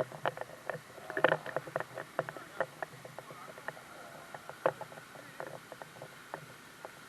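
Water splashing in a mountain stream: irregular splashes and plops, thick at first and thinning out after a few seconds, over a faint steady rush of flowing water.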